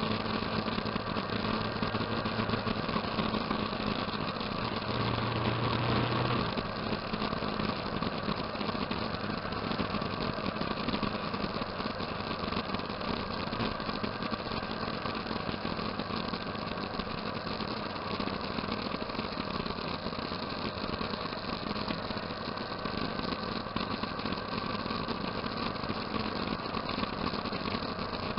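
A motorcycle engine running steadily, with a brief deeper swell about five seconds in.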